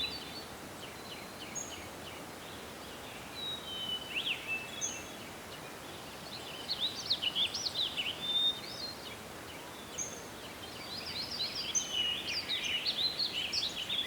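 Several small birds chirping and trilling over a faint steady outdoor hiss, busiest about halfway through and again near the end.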